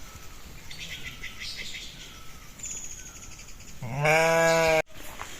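Sheep bleating: fainter calls from the flock, then one loud, long bleat near the end that cuts off suddenly.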